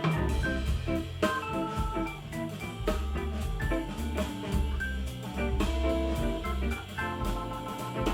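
Instrumental music with a deep bass line and drum hits, played back through Edifier S2000 MkIII powered bookshelf speakers and picked up by a camera's built-in microphone.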